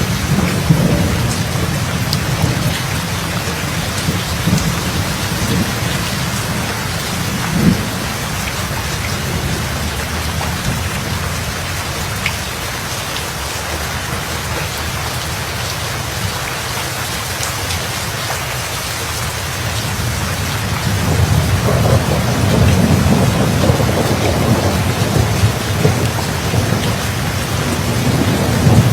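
Thunderstorm: steady rain falling, with thunder rumbling low underneath. The rumble eases off through the middle and builds again about two-thirds of the way through.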